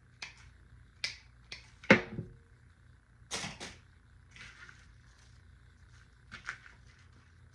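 Artificial greenery and floral materials being handled: scattered light clicks and rustles of plastic stems and leaves, with one sharp click about two seconds in and a longer rustle a little over three seconds in.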